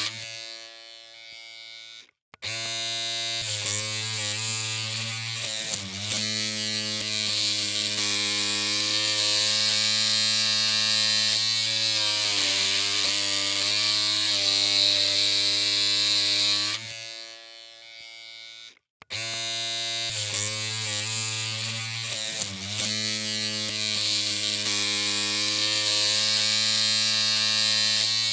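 Electric hair clippers running with a steady humming buzz. The buzz fades and cuts out twice, about two seconds in and again around seventeen to nineteen seconds, starting again each time.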